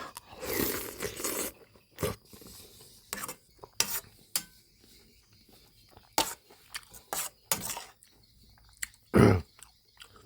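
Eating sounds over a bowl of soup: a spoon clinking and scraping against the bowl, with chewing, as a run of short clicks and knocks. There is one louder thump about nine seconds in.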